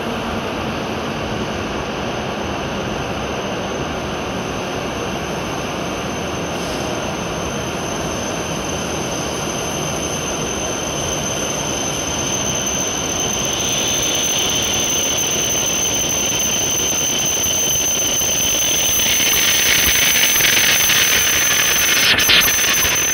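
E7-series Shinkansen train rolling slowly in along the platform as it arrives, a steady running noise with a thin high whine. A hiss builds from about halfway and swells over the last few seconds as the train draws to a stop.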